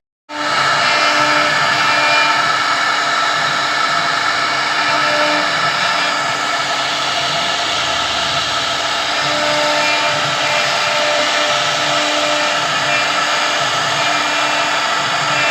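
CNC wood-carving router running steadily as it cuts, a continuous whine with a rushing noise. It comes in after a split second of silence right at the start.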